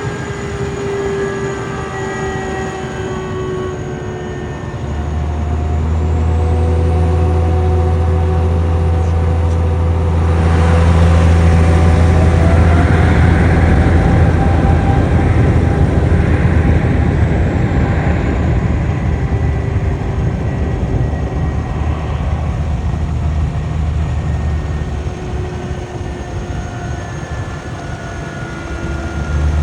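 Boeing 777-300ER's twin GE90 turbofans at take-off power: a steady jet whine over a deep rumble. The rumble swells about five seconds in, is loudest in the middle, where the whine tones glide upward, and eases toward the end.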